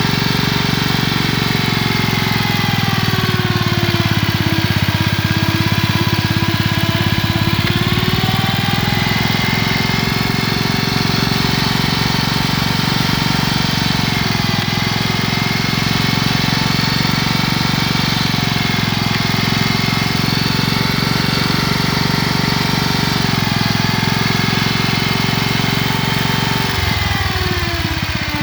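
1947 Gibson Model D tractor's engine running steadily as the tractor is driven. Its pitch sags a few seconds in and climbs back, then falls near the end as the engine slows.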